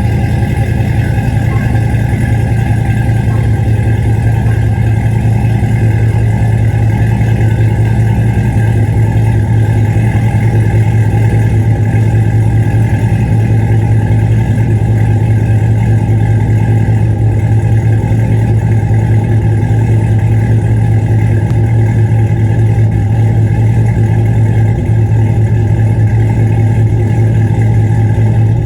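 Cadillac CTS-V's supercharged V8 idling steadily through its new 3-inch exhaust with Flowmaster mufflers, a deep even note.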